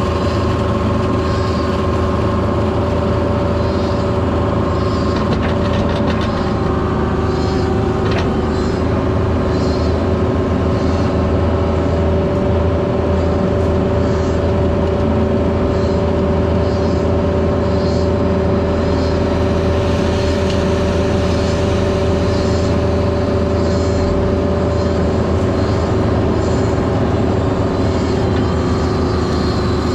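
Heavy diesel equipment engine running steadily, with a steady whine over it and faint high chirps repeating about once a second.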